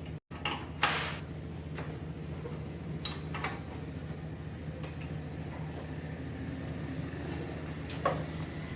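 A few scattered metal clinks and knocks of a spanner and fittings on a motorcycle silencer mount, heard over a steady low hum; the engine is not running.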